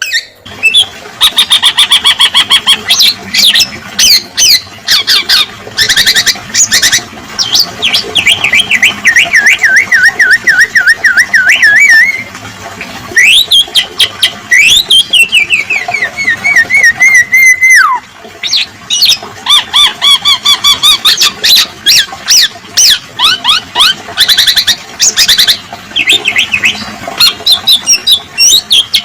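Bird-training recording of a male black-naped oriole's song with filler phrases: loud bursts of rapid repeated chattering notes. Between them, about a third of the way in, comes a long wavering whistle that falls in pitch, followed by sharp rising whistles, before the rapid notes resume.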